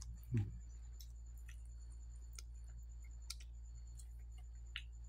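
Quiet eating sounds: scattered soft mouth clicks and smacks of chewing, with one louder low thump about half a second in, over a steady low hum.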